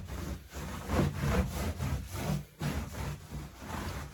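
Repeated scraping strokes, about two a second, like something being rubbed back and forth across a work surface.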